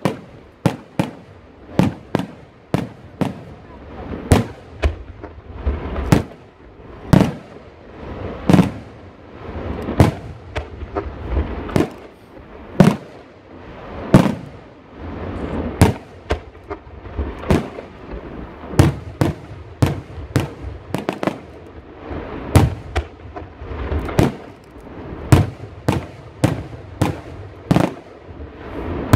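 Aerial firework shells bursting in quick, irregular succession: sharp bangs about one to two a second, some followed by a short echo, over a low rumble.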